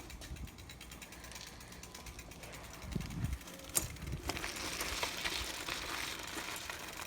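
Mountain bike's rear freewheel ticking rapidly as the wheel turns. There is a sharp click about four seconds in, after which a steady rushing noise takes over.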